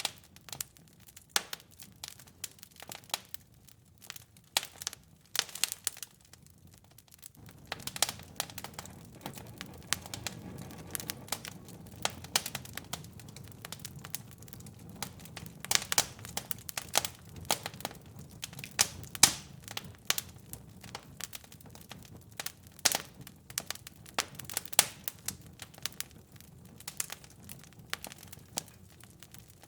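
Fireplace fire crackling, with irregular sharp pops and snaps. After about seven seconds a steady low rumble comes in under the crackle.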